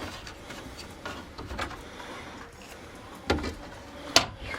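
A few short knocks and clicks over a low background noise, the loudest a sharp click about four seconds in.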